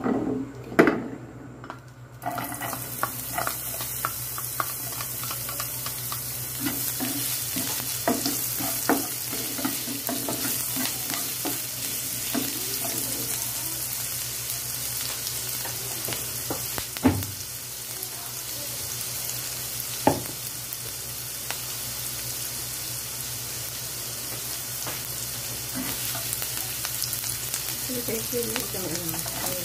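Diced onion and ginger hit hot oil in a nonstick pan and start sizzling suddenly about two seconds in, then fry steadily while being stirred, with small clicks and scrapes of the utensil against the pan and two sharper knocks later on.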